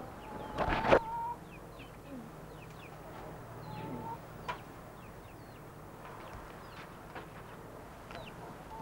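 Birds chirping and calling: scattered short high chirps and a couple of longer drawn-out calls, over a low steady hum. A sharp knock comes about a second in and is the loudest sound.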